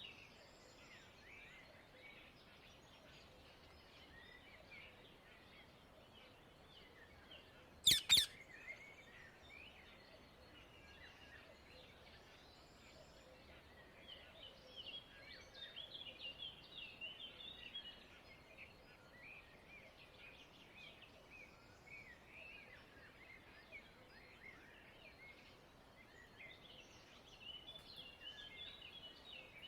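Wild Indian ringneck parakeet giving one loud, shrill call about eight seconds in, over steady faint twittering and chirping of birds.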